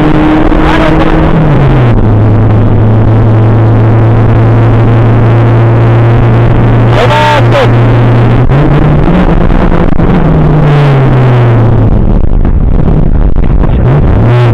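Škoda Felicia rally car's 1.3-litre four-cylinder engine, heard loud from inside the cabin. It runs at a steady pitch that drops early on, climbs again past the middle, then falls away near the end.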